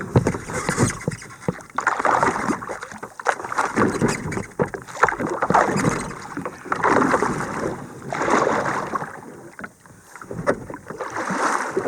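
Kayak paddle strokes dipping and pulling through the water, a watery swish on each side every couple of seconds, with small knocks and drips between strokes.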